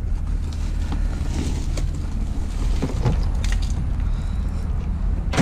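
Steady low rumble with a few scattered knocks, and a louder, sharper knock at the very end as scrap metal is handled and unloaded.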